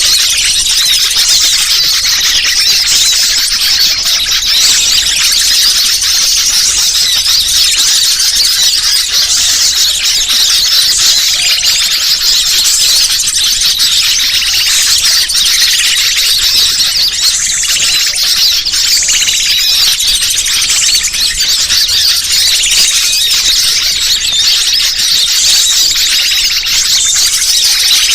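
Bird-lure recording: a dense, unbroken chorus of many small birds chirping and twittering at high pitch.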